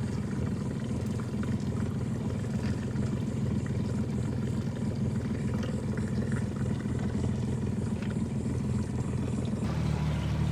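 Motorboat engine running steadily at low cruising speed, a low even hum; its tone shifts slightly near the end.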